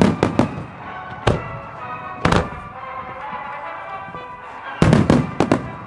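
Aerial firework shells bursting with sharp bangs over music: a quick cluster of bangs at the start, single bangs about one and two seconds in, and another rapid cluster near the end.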